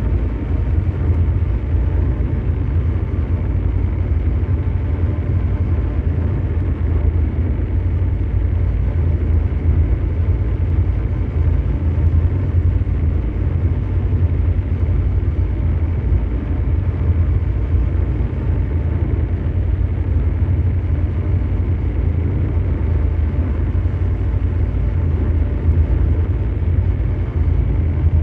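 Continuous ambient mechanical drone noise: a deep, steady engine-like rumble over brown noise, with a faint hum of steady tones above it and no changes or events.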